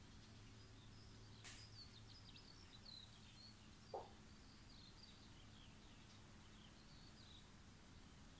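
Near silence with faint bird chirping throughout over a low steady hum; a brief soft rustle about one and a half seconds in and a small tap about four seconds in.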